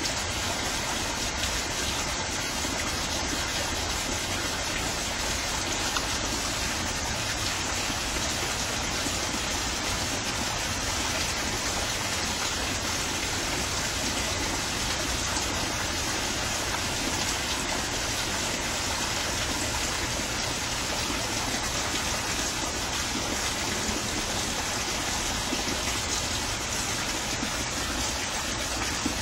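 Steady rain falling, a continuous even hiss with no breaks or changes.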